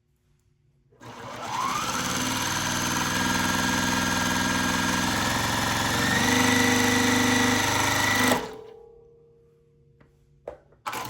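Juki TL-15 semi-industrial straight-stitch sewing machine sewing at high speed with its speed control turned up. It winds up about a second in, climbs a step faster around six seconds, and stops suddenly after about seven seconds. A couple of sharp clicks follow near the end.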